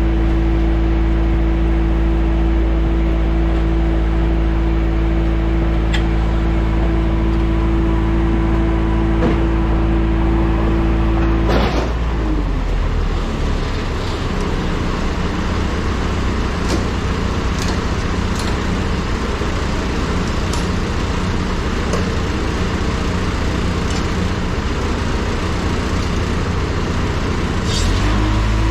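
Airport ground machinery running with a steady humming tone. About twelve seconds in there is a click and the hum gives way to a rougher engine sound; the steady hum returns near the end.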